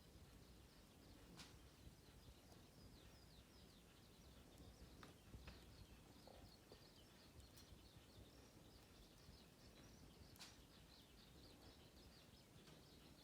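Near silence, with faint birdsong: runs of quick, high chirps throughout, and a few faint sharp clicks.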